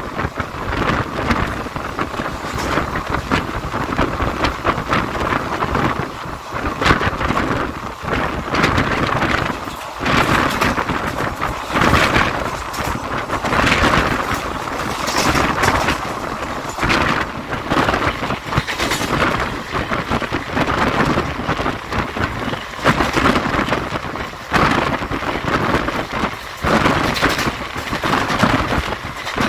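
ICF passenger coach of a running express train: a steady rush of running noise with irregular clatter and knocks from the wheels and the coach body.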